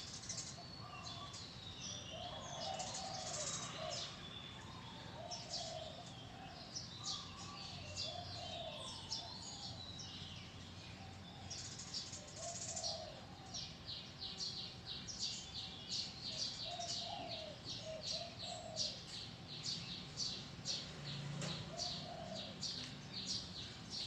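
Several songbirds chirping and calling in a busy chorus of high chirps, with a lower call repeating every second or two. From about halfway a fast, even run of sharp chirps sets in.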